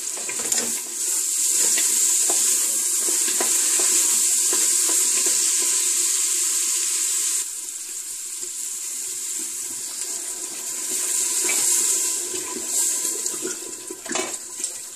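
Soaked kidney beans and minced meat sizzling as they are sautéed in a pressure cooker pan and stirred, with a few light spoon clicks. The sizzle is louder in the first half and drops about halfway through.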